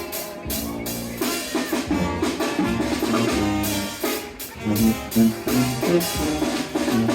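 Band music: horns playing over a drum kit with a steady beat.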